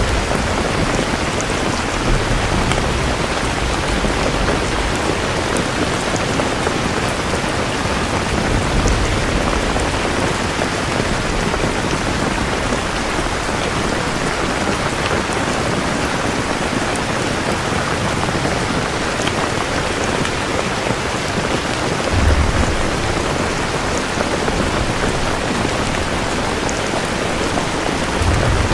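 Steady heavy rainfall hissing and pattering on surfaces. Low rumbles of thunder swell briefly about two-thirds of the way through and again near the end.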